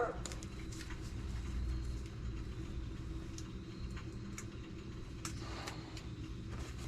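A low steady hum with a few light clicks and taps, like small objects being handled.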